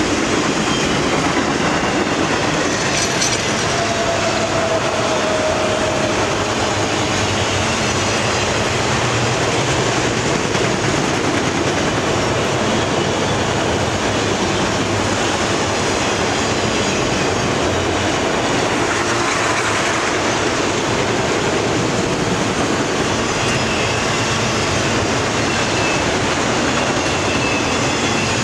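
Autorack freight cars rolling past close by: a steady, loud rumble of steel wheels on rail. Faint, brief wheel squeals come through a few seconds in and again near the end.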